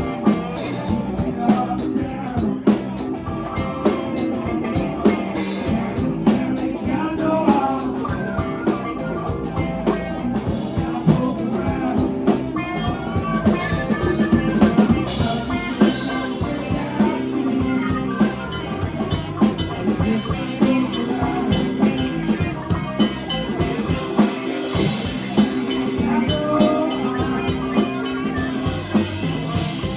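A live rock band playing an instrumental passage: drum kit keeping a steady beat under guitar and bass.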